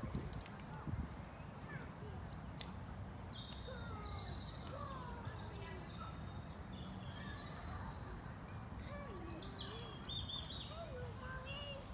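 Songbirds singing: several phrases of quick, high, downward-sliding notes, with lower sliding calls between them, over a steady low background rumble.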